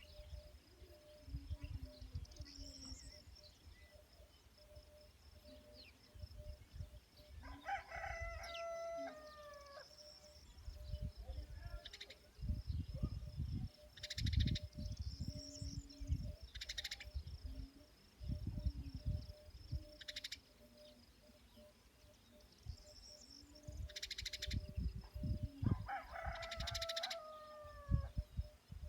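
Rooster crowing twice, about eight seconds in and again near the end, each crow a drawn-out call in several parts. Under it runs a steady pulsing insect chirr, with short high chirps and low rumbles coming and going.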